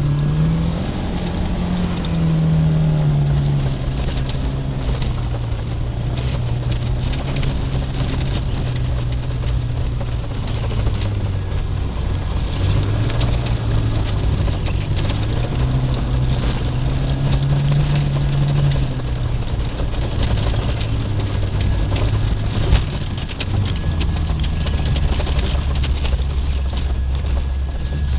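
VAZ 2108 (Lada Samara) engine running under hard driving, its note rising and falling again and again, dropping lower near the end, over a steady rushing noise.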